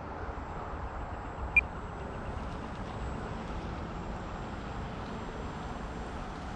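Electric motor and propeller of a 1.5 m E-flite Air Tractor RC floatplane running steadily in flight. One short, sharp, high chirp sounds about a second and a half in.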